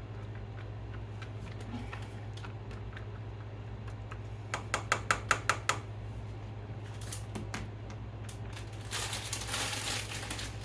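Kitchen handling sounds over a steady low hum: a quick run of about ten light clicking taps around the middle, a few more shortly after, then a rustle near the end.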